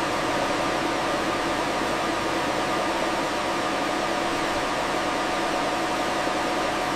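Steady machine noise, like fans or ventilation running, with a few faint steady hums underneath.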